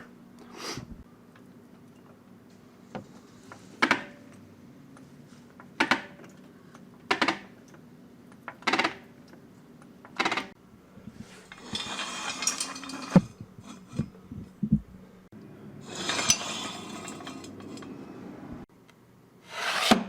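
Metal clanks and scraping from jacking up a car and setting it on jack stands: sharp clanks every second or two, then two longer stretches of scraping in the second half.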